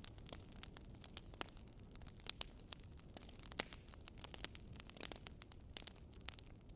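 Wood fire crackling: many small irregular snaps and pops over a low steady rumble.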